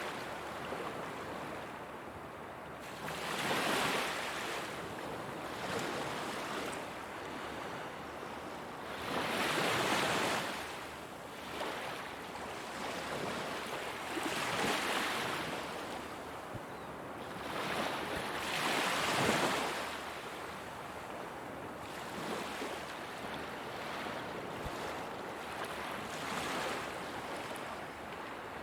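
Ocean waves breaking on a beach: a swell of hissing surf every five seconds or so over a constant wash of water, the later swells weaker.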